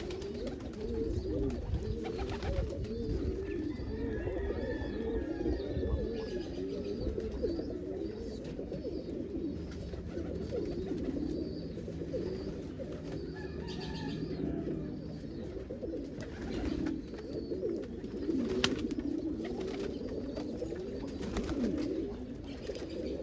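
A loft full of domestic pigeons cooing, many overlapping low, wavering coos forming a continuous chorus.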